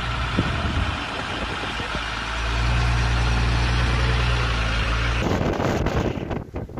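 Heavy vehicle engine running steadily with a low hum. About five seconds in it cuts abruptly to a rushing, wind-like noise.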